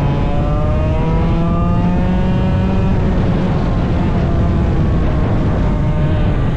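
Small 100cc racing engine under hard acceleration, its pitch climbing for about the first three seconds, then running flat out in a dense, steady roar.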